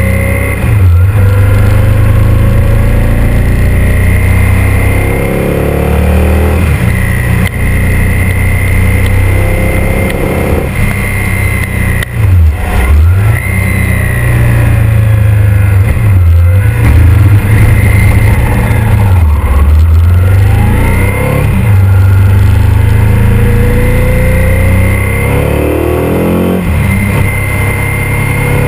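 Ducati 851's 90-degree V-twin engine accelerating hard, its pitch climbing and then dropping sharply at each gear change, about six times over, heard from a camera mounted on the motorcycle.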